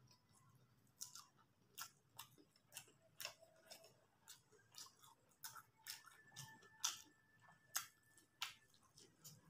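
Faint, close mouth sounds of a person chewing a big mouthful of soft chow mein noodles: short wet clicks and smacks, irregular, about one or two a second.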